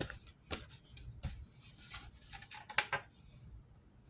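Playing cards being handled: a quick series of short scrapes and clicks over the first three seconds, then quiet room tone.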